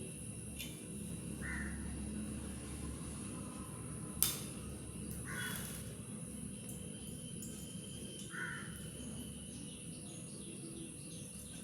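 A bird giving short calls about every three seconds, three times, over a low steady background hum, with one sharp click about four seconds in.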